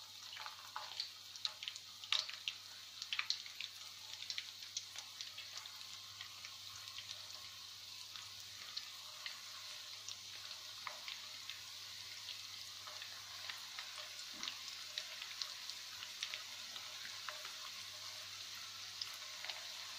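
Breaded chicken fingers sizzling in a pan of hot oil: a steady crackling hiss with many small pops, the sharpest pops in the first few seconds as more pieces are added.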